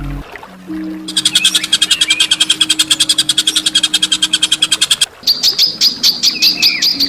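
Songbird calls: a fast, harsh, high rattling trill of about fifteen notes a second that lasts about four seconds, then, after a brief break, a slower run of sharp repeated notes about three a second.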